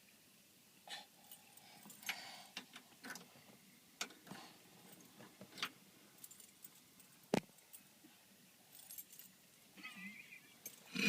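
A bunch of keys jangling and clicking in small scattered bursts as a key is fumbled with, with one sharp click about seven seconds in.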